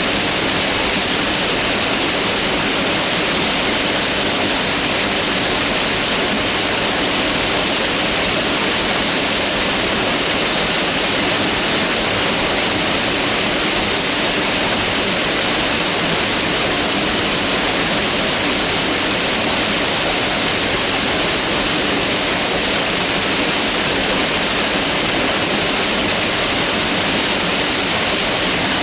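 Mountain river rushing steadily over rocks, a constant loud hiss of flowing water.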